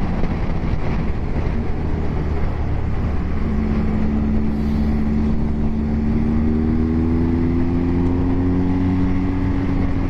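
Motorcycle engine running at speed with heavy wind noise. The engine note climbs slowly and steadily through the second half as the bike gathers speed.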